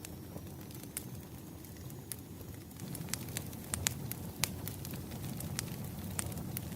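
Wood fire burning: logs crackling with sharp, irregular pops over a low steady rumble, the pops coming more often from about three seconds in.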